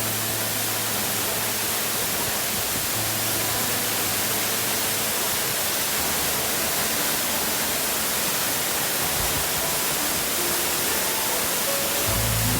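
Waterfall's water rushing in a steady, unbroken noise, with low music notes underneath.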